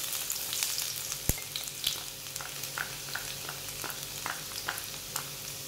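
Chopped garlic sizzling in hot sunflower oil in a nonstick frying pan, stirred with a wooden spatula. The hiss is strongest in the first second, just after the garlic goes in, and is dotted throughout with small crackles and spatula clicks.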